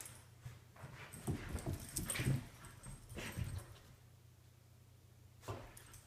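Dog vocalizing in a run of short sounds, loudest from about one to two and a half seconds in and again briefly around three seconds, with a sharp click near the end.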